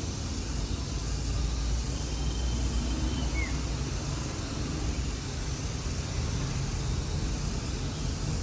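Steady outdoor ambience: a low rumble under an even hiss, with a single short high chirp about three and a half seconds in.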